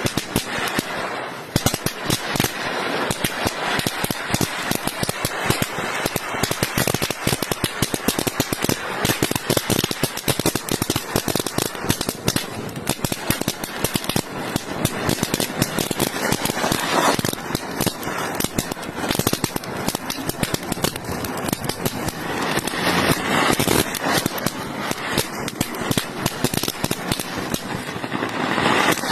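An anar fountain firework hissing while pop-pop snap crackers go off, a dense rapid crackle of small sharp pops with no let-up.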